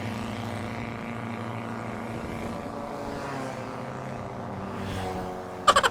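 A motor vehicle's engine running with a steady low drone. Just before the end a sudden loud burst of rapid, evenly spaced clicks cuts in.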